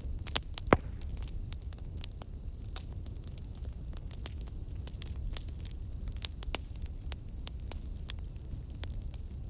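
Wood fire burning in a fireplace: a steady low rumble with irregular crackles and pops, one sharp pop just under a second in.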